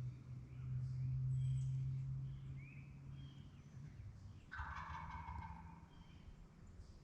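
Wild turkey gobbler gobbling once, a rattling call about a second long just past the middle, with faint songbird chirps around it. A low steady hum fills the first half and stops before the gobble.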